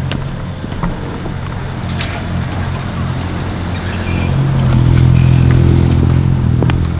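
A motor vehicle's engine running with a steady low hum, growing louder about four seconds in and easing off near the end.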